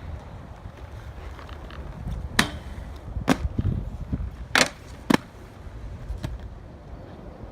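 Inline skate wheels rolling on concrete with a steady low rumble, broken by four sharp clacks of the skates striking the ground between about two and five seconds in.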